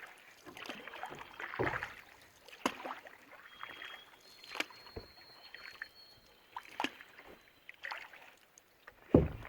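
Canoe paddling: irregular splashes of paddle strokes in the water, with a few sharp knocks, the loudest near the end.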